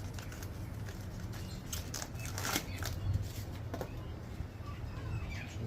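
A few scattered clicks and knocks of vegetables being cut and handled on a chopping board, over a steady low hum.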